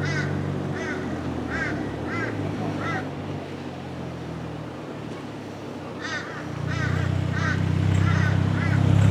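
A bird calling in a series of short, evenly repeated notes, about three every two seconds, breaking off for a few seconds midway and then resuming. Underneath runs the steady low hum of a boat's engine, which grows louder over the last few seconds.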